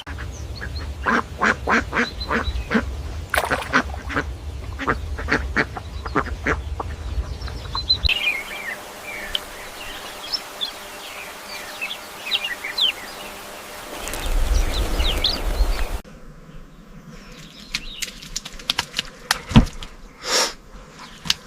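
Ducks quacking in a group, with a low rumble underneath. About eight seconds in the sound cuts to a different clip of many short, high chirping calls, and near two-thirds of the way it cuts again to sparser single calls.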